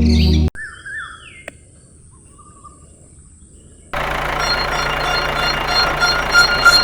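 Birds chirping a few times over a quiet background after music cuts off. About four seconds in, a steady mechanical hum starts abruptly.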